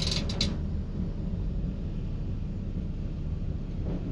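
Diesel multiple unit running at speed, heard from the driver's cab as a steady low rumble, with a few short, sharp clicks at the very start.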